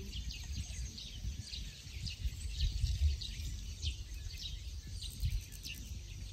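Birds chirping over and over in short, high, falling calls, with a low fluctuating rumble of wind on the microphone.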